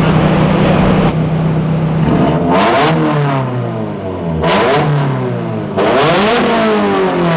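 Turbocharged Nissan SR20DET four-cylinder engine running on a dyno: it holds a steady speed for about two seconds, then is revved three times, its pitch climbing and falling back each time.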